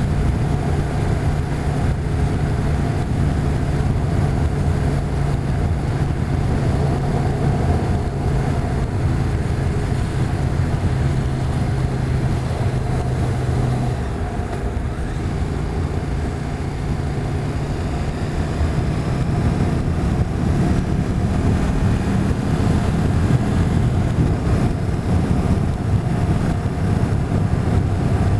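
Motorcycle engine running at road speed, with wind rushing over the microphone. About halfway through, the engine note drops and the sound eases off, then the note climbs again as the bike picks up speed.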